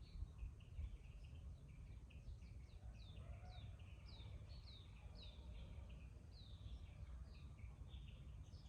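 Several small birds chattering faintly: many short chirps and quick falling calls in an irregular stream, over a low background rumble.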